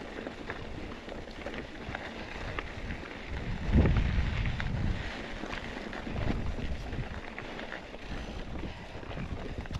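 A mountain bike rolling along a dirt desert trail, with wind buffeting the microphone and scattered clicks and rattles from the bike and the ground. The biggest gust of wind comes about four seconds in.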